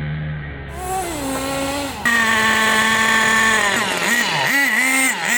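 HPI WR8 nitro RC car's small glow-fuel engine idling, then revving up, holding a high steady pitch for about a second and a half, then dropping back and blipping the throttle, about two quick revs a second near the end.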